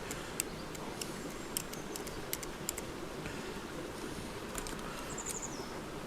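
Quiet outdoor background: a steady low rushing with scattered faint ticks and crackles, and a short high chirp about five seconds in.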